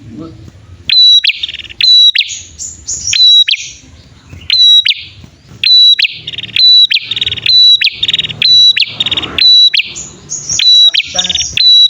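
Prenjak, a male and a female, calling back and forth: loud, sharp high chips repeated about once or twice a second, mixed with buzzy rattling trills.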